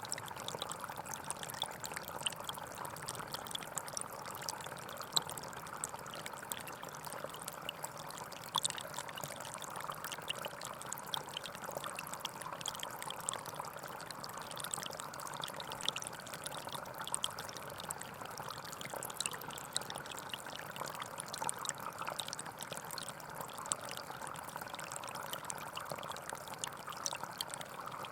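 Small forest stream flowing steadily, water trickling and splashing over stones in an even, unbroken rush.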